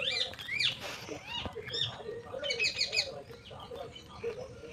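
Birds chirping: many short, quick rising-and-falling calls overlapping one another, with a denser burst of calls about two and a half seconds in.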